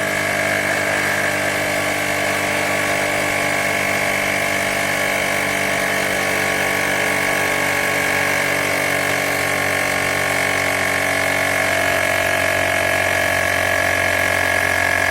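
Woowind AP2-P cordless electric tyre pump running steadily with an even motor-and-compressor hum while inflating an empty bicycle tyre toward a set 2.4 bar.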